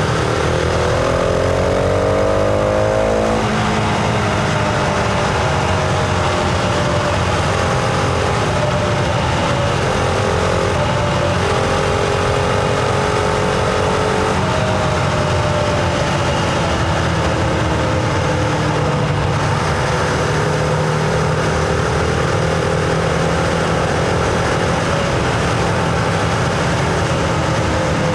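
Husqvarna Vitpilen 701's single-cylinder engine under way: it pulls up in revs for the first three seconds or so, drops at a gear change, then cruises with the engine note drifting gently up and down.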